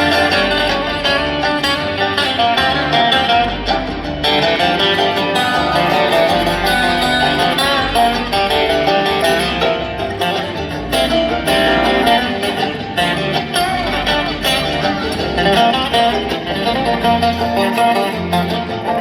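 Live bluegrass band playing an instrumental break, with acoustic guitar and other plucked strings over a steady bass line.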